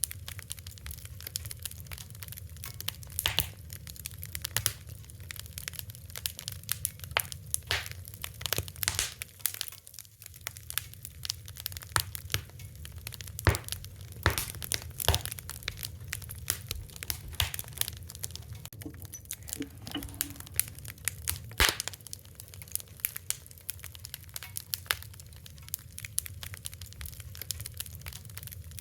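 Fire crackling: irregular sharp pops and snaps, many close together and some louder, over a steady low rumble.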